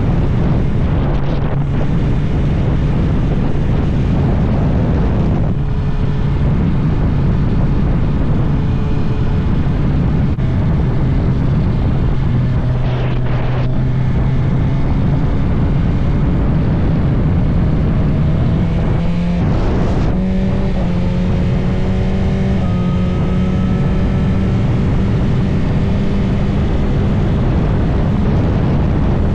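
Inline-four engine of a 2022 BMW S1000RR running on the move, heard under heavy wind noise on the microphone. The engine note dips briefly around thirteen seconds in, then climbs in steps after about twenty seconds as the bike accelerates.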